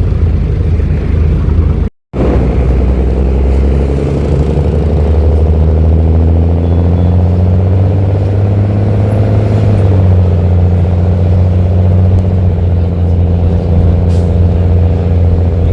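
Mercedes-Benz OH-1318 bus's six-cylinder diesel engine running loud through a free, open exhaust while pulling under acceleration. Its pitch climbs for several seconds, drops at a gear change about ten seconds in, then holds steady. The sound cuts out for a split second about two seconds in.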